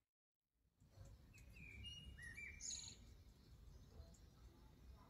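Faint birdsong: a few short, quick chirps about a second and a half to three seconds in, over a low hum of background noise.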